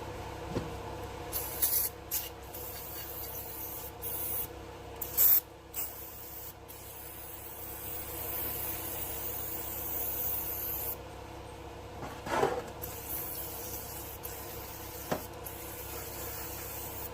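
Repeated short hissing blasts of spray, with one longer blast in the middle, cleaning caked dirt out of a chainsaw, over a steady hum.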